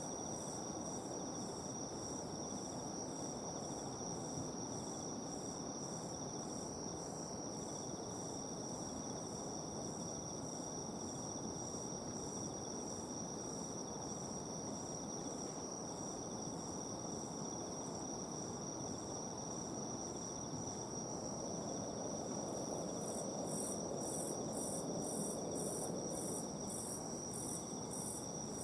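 Insects chirping on a summer night: a steady high trill runs under a pulsing chirp about twice a second, and the chirp grows louder near the end. A faint steady low background noise lies underneath.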